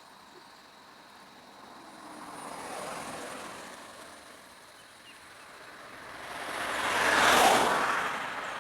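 Two road vehicles driving past one after the other. Each one's noise rises and fades; the first peaks about three seconds in, and a louder, closer one peaks about seven seconds in.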